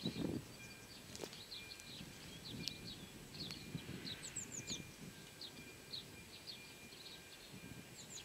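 Small songbirds chirping, short high notes repeated every half second or so, with a quick run of four higher falling notes about four seconds in. A faint, uneven low rumble of outdoor noise lies underneath.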